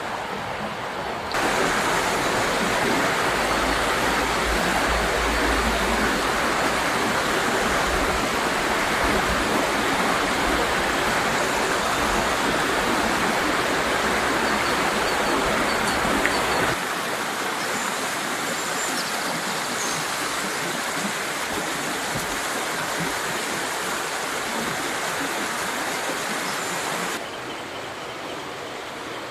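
Mountain river rushing over rocks, a steady roar of flowing water. It jumps louder about a second in, with a deep rumble under it through the loud stretch, then drops back abruptly about two-thirds of the way through and again near the end.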